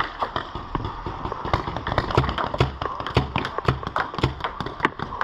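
Paintball markers firing: quick, irregular pops, several a second, with dull low thumps among them.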